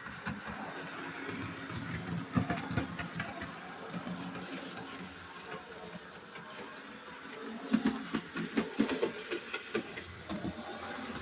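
Hornby 0-4-0 model locomotive running on 00 gauge track hauling four-wheel coaches: a steady small-motor whirr with wheel clicks, and a denser run of clicks and knocks about three quarters of the way through.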